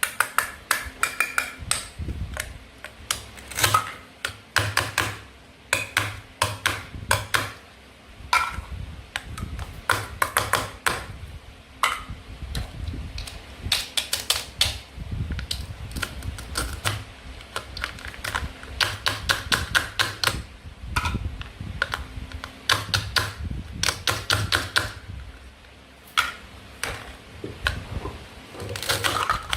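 Plastic toy food pieces clicking and clacking as they are handled, a quick irregular patter of hard taps in clusters, some with a short ringing tone.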